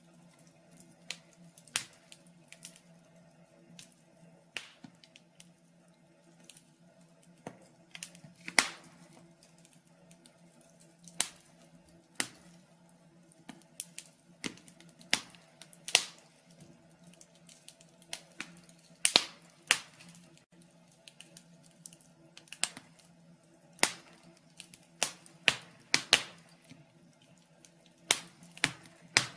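Wood fire in a fireplace crackling: irregular sharp pops and snaps, a second or two apart, some much louder than others, over a faint steady hum.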